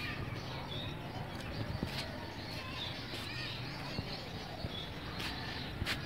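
Birds chirping over a steady outdoor background noise, with a few sharp clicks in the second half.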